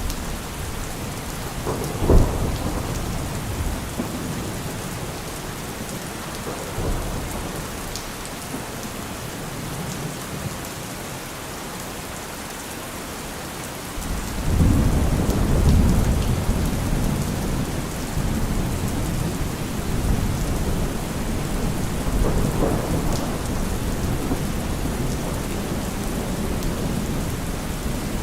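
Steady rain with thunder: a short sharp crack about two seconds in, then a deep rumble rolling in about halfway through, loudest soon after it starts and fading slowly.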